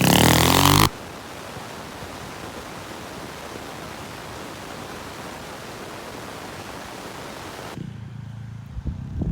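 A mini bike engine is loud for about the first second, then cuts off sharply into a steady, even hiss that lasts about seven seconds; the engine sound comes back near the end.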